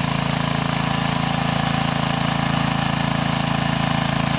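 An engine running loudly and steadily at an even speed, with a low, rapid, regular putter.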